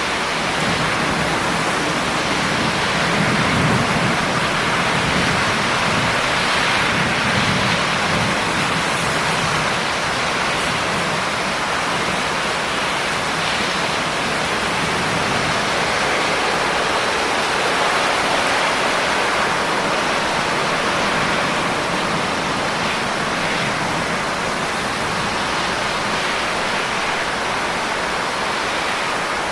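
Steady heavy rain, a dense even hiss without individual drops standing out. A low rumble swells briefly a few seconds in.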